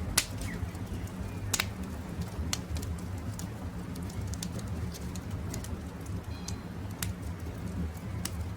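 Campfire crackling over a low steady rumble, with frequent sharp pops and snaps, two louder ones in the first two seconds. Faint bird calls sound in the background.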